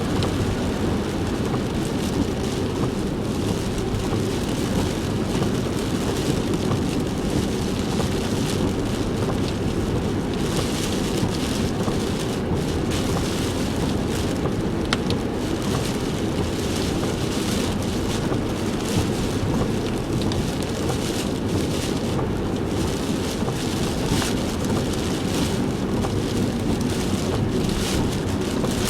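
Typhoon rain drumming on a moving car, over a steady low rumble of road and engine noise, with scattered light ticks of drops.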